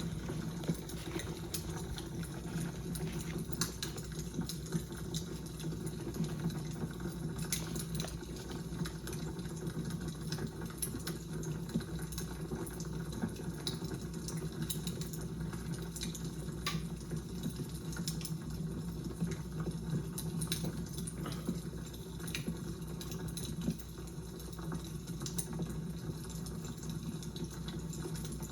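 Fire crackling: a steady low noise with small sharp pops and snaps at irregular moments throughout.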